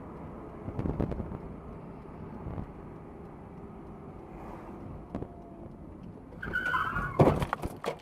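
Steady traffic and road noise, then a squeal about six and a half seconds in, typical of tyres skidding under hard braking, and a loud crash bang about a second later, followed by a few smaller knocks.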